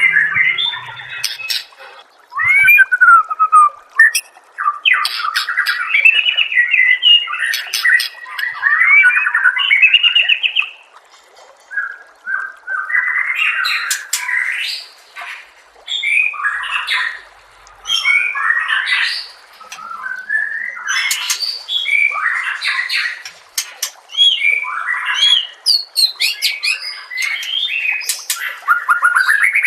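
Songbird singing loud, varied phrases of slurred whistles and fast trills, in bursts separated by short pauses.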